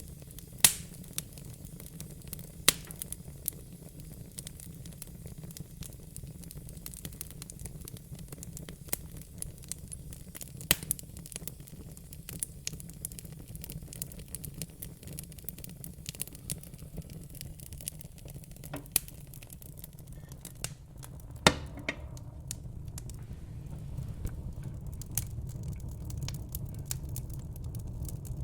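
Burning logs crackling, with scattered sharp pops, a few of them much louder than the rest, over a low steady rumble of the fire. The rumble grows slightly louder in the last few seconds.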